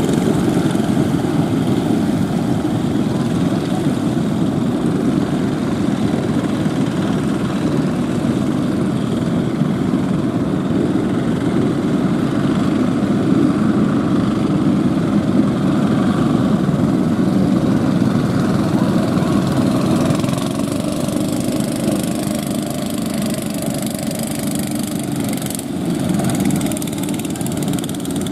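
Fishing boat motors running steadily under a dense, low rumbling noise, with a faint engine tone standing out for a few seconds near the end.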